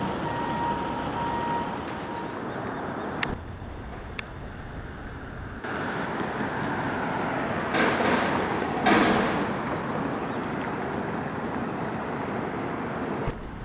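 McNeilus front-loader garbage truck running, its reversing alarm beeping for the first couple of seconds. Later come two short, loud hisses about a second apart.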